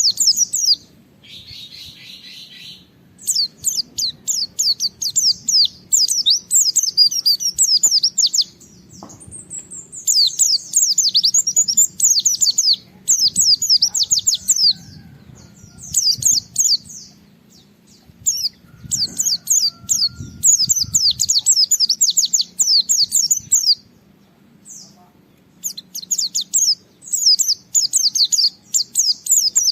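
A white-eye (pleci) singing hard: bursts of rapid, high chattering and trilling phrases, broken by short pauses, with one brief buzzy note about two seconds in.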